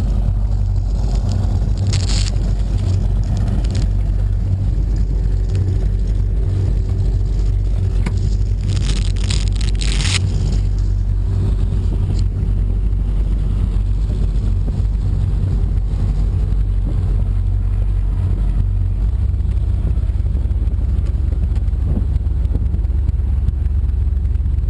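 Powerboat engines running as a loud, steady low rumble, with brief bursts of hiss about two seconds in and again around eight to ten seconds in.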